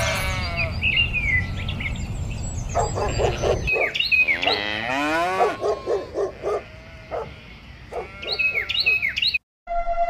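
Sheep bleating several times in wavering, quavering calls, with birds chirping over them. A low background rumble drops away about four seconds in.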